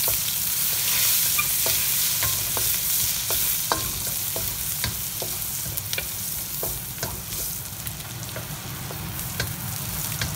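Garlic and ginger sizzling in melted butter in a stainless steel wok, stirred with a wooden spatula that clicks and scrapes against the pan now and then. The sizzle is loudest in the first few seconds, then settles lower.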